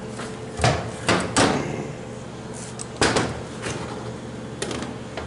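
A transmission valve body being picked up and set down beside another on a workbench: about half a dozen sharp, irregular knocks and clunks of metal parts.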